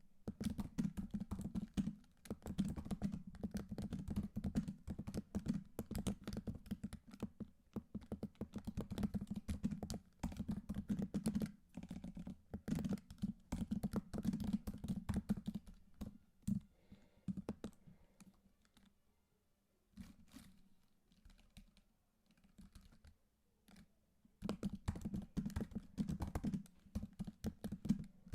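Typing on a computer keyboard: rapid runs of key clicks. Past the middle the typing thins out to a few scattered clicks for several seconds, then fast typing starts again near the end.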